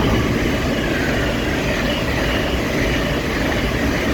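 LNER Class 801 Azuma electric train passing close by: a loud, steady rush of wheel rumble and air noise.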